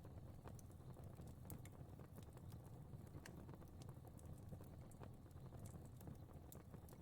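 Faint fire crackling: small, irregular pops and crackles over a low steady rumble.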